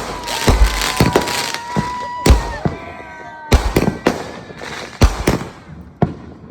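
Fireworks going off: a run of sharp, irregular bangs and cracks. Over the first half a high whistling tone holds steady, then drops in pitch.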